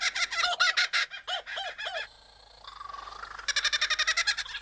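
Superb lyrebird mimicking other birds' calls: fast runs of repeated notes, a short lull about two seconds in, then another fast run.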